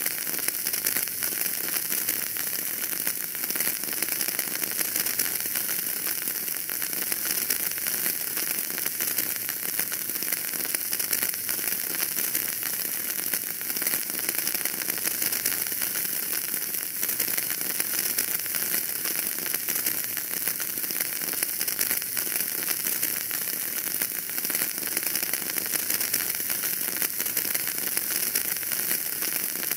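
Wood fire in a fireplace burning and crackling steadily: a dense run of small pops and snaps over a constant hiss.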